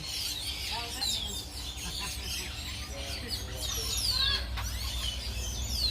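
Small birds chirping, many short high calls that sweep downward, repeated throughout, over a steady low rumble.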